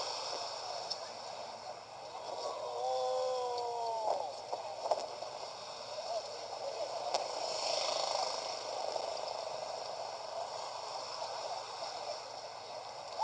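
JR 223-series electric train passing with a steady running noise. A short pitched tone sounds about two and a half seconds in and lasts over a second.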